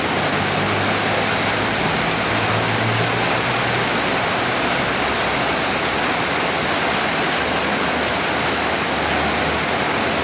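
Heavy tropical downpour: a dense, steady hiss of rain pouring down. A low hum sits underneath during the first three seconds or so.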